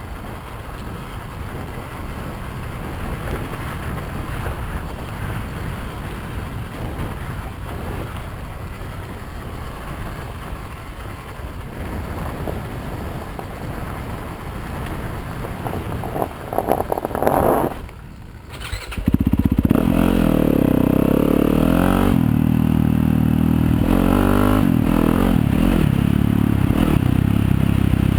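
Yamaha YZ250FX dirt bike's single-cylinder four-stroke engine running under way, with wind and trail noise. After a brief burst and a sudden drop about two-thirds of the way in, the engine comes back much louder and holds steady.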